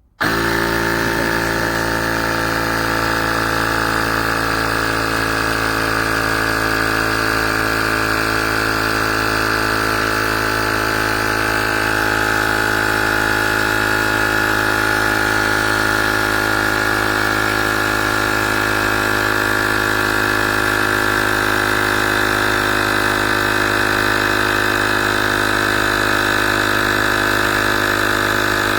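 Small battery-powered air compressor built into a YaberAuto jump starter, switching on abruptly right at the start and then running steadily as it pumps up a motorbike tyre. It holds an even, droning pitch throughout.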